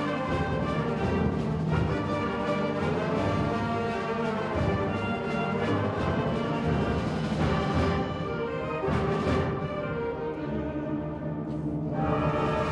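A school concert wind band playing: sustained chords from brass and woodwinds over a low bass line, with a fresh loud chord entering near the end.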